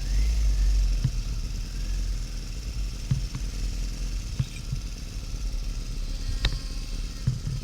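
Harley-Davidson XL1200N Nightster's air-cooled 1200 cc V-twin running on the road, a steady low rumble with a hiss above it and a few sharp ticks. It gets louder at the very start.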